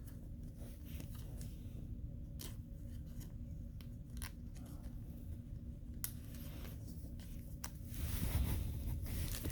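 Trading cards and pack wrappers being handled: scattered soft clicks and flicks of card stock, with a short louder rustle near the end, over a faint steady hum.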